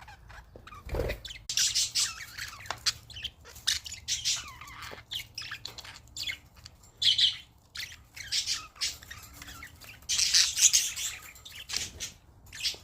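Pet budgies chattering in irregular bursts of harsh, high chirps and squawks, loudest about ten seconds in. A soft low thump about a second in.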